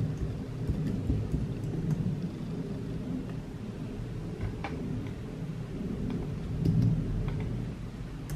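Steady low rumble of rain outside, swelling louder for a moment about seven seconds in, with a few faint light taps.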